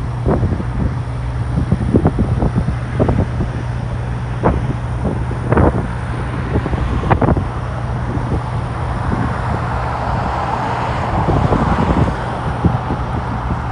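Wind gusting and knocking on the microphone over a steady low engine hum, with the noise of a vehicle swelling and fading about ten to twelve seconds in.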